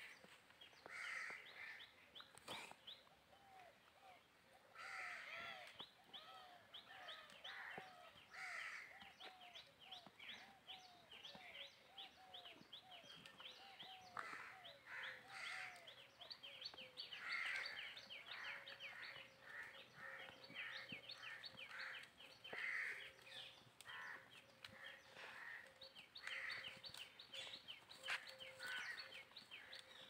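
Birds chirping and calling in a busy, overlapping chorus of quick high chirps and trills. A lower call repeats about twice a second for several seconds in the first half.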